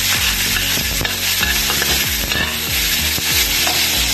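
Diced pork and garlic sizzling steadily in hot oil in a frying pan, stirred and pushed around with a metal spatula.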